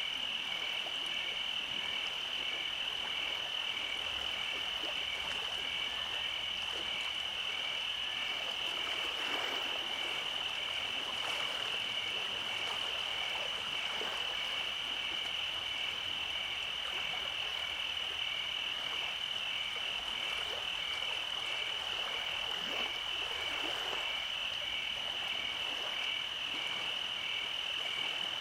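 Night-time chorus of calling frogs and insects: a steady high-pitched trill with a regular pulsing chirp just beneath it, unchanging throughout.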